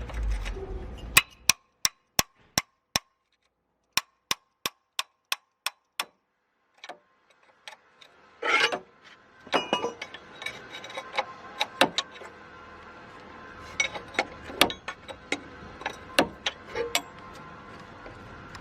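Hammer striking metal: two runs of quick, even taps, about three a second, then a stretch of irregular knocks and clinks.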